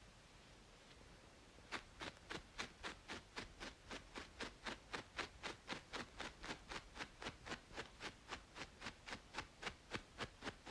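Rapid, even scratching strokes on a braided scalp, about four a second, starting a couple of seconds in, over a steady faint white-noise hiss.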